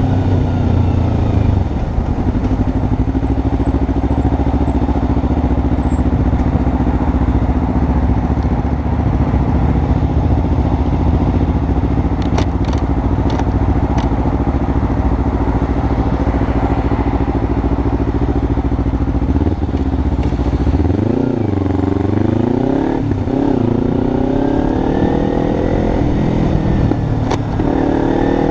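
Kawasaki Ninja 300's parallel-twin engine running at steady cruising revs under a constant rush of wind noise. About twenty seconds in, the engine pitch drops and swings up and down, then climbs steadily as the bike speeds up again.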